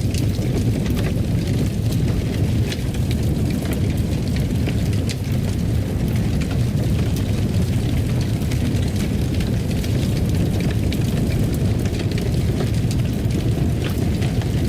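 Fireplace fire burning, with a steady low roar and frequent small, sharp crackles and pops scattered throughout.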